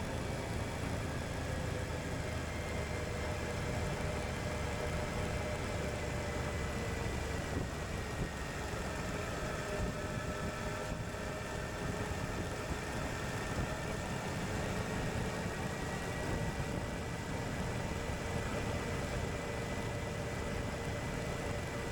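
Suzuki V-Strom 1050XT's V-twin engine running at a steady pace under a rush of wind and road noise, its pitch easing down slightly and then rising again.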